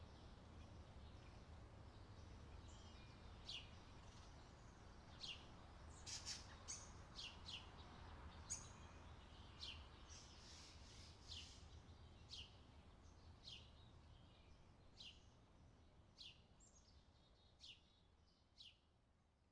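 Faint bird chirping: short, falling notes about once a second, some in quick pairs, over a low steady rumble. It all fades gradually toward the end.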